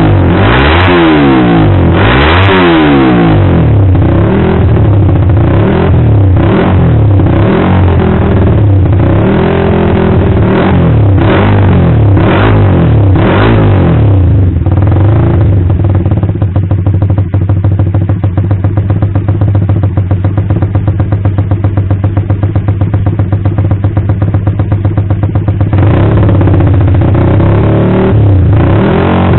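Suzuki Satria FU motorcycle single-cylinder engine through an aftermarket exhaust, blipped repeatedly so the pitch rises and falls over and over. About halfway through it settles to a steady, pulsing idle, and it is revved again near the end.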